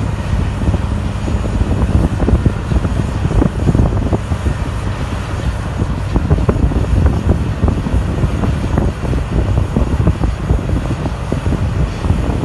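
Heavy diesel earthmoving machinery, a Caterpillar D10 bulldozer and CAT 631 scraper, running in a loud, steady low rumble with irregular knocks and crackles throughout.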